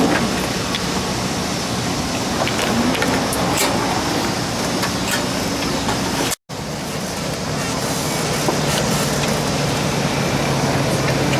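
Race car engines running as a steady, noisy din, with a low hum coming up in the second half. The sound cuts out suddenly for a split second about six seconds in.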